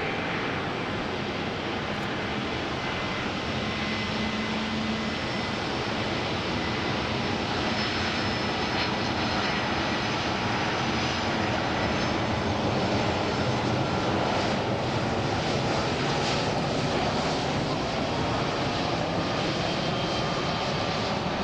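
Jet noise from a Boeing 757-200F freighter's twin engines on its landing approach: a steady roar with faint high whining tones, growing slightly louder around the middle.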